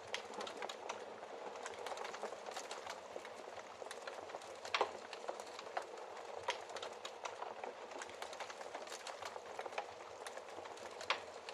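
Wood fire in a fireplace crackling steadily, with many small irregular pops and a couple of louder snaps, about five seconds in and near the end.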